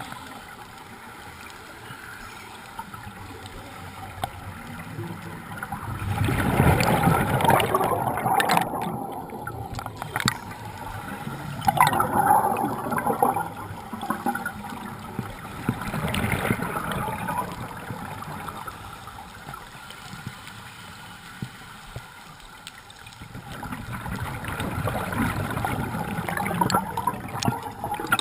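Water gurgling in four noisy surges a few seconds apart, each lasting one to four seconds, over a steady low wash.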